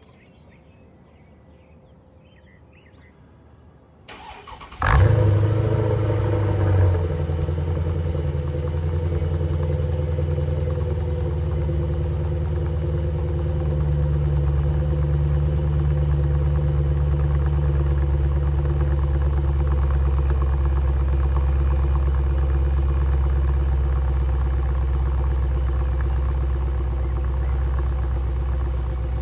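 Mercedes-Benz E550's 5.5-litre V8 starting about four seconds in, after a brief crank, flaring for a moment and then settling into a steady idle. The exhaust runs through a 2.5-inch X-pipe in place of the mid-resonator and three-chamber Magnaflow mufflers, with the secondary cats still in place.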